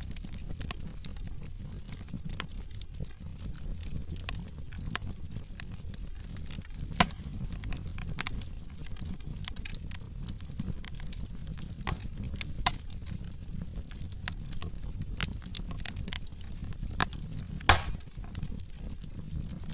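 Wood logs burning in a fireplace: a steady low rumble of flames with irregular crackles and sharp pops, the loudest pops about 7 seconds in and near the end.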